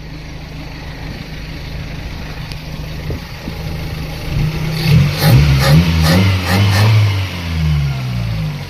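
Carbureted car engine idling, then revved several times from about four and a half seconds in, the pitch rising and falling with each blip of the throttle and dropping back to idle near the end. A few sharp clicks sound during the revs.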